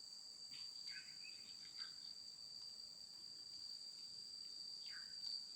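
Faint, steady chorus of insects, crickets or cicadas, making a constant high shrill tone, with a few faint short chirps about a second in and near the end.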